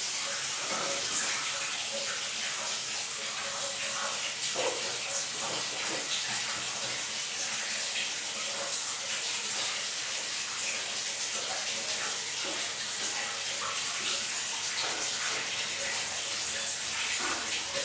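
Water running steadily and splashing in a bathroom while a pet bird is washed, with small irregular splashes and clicks.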